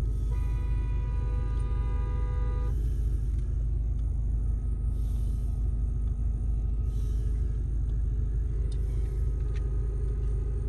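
Steady low rumble of a car idling at a standstill in Drive, heard from inside the cabin. A faint steady chord of several tones sounds for about two seconds near the start.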